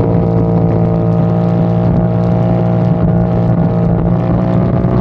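A motorcycle engine running steadily at a constant speed, its pitch holding level.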